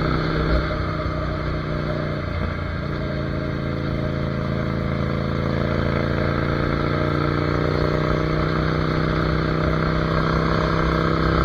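Ducati Monster 797's air-cooled L-twin engine running as the motorcycle is ridden. There is a brief break in the note about two seconds in, then the engine pitch climbs slowly as it gathers speed.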